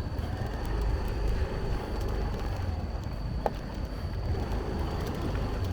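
Motorbike running while being ridden off-road, with wind rumbling on the microphone.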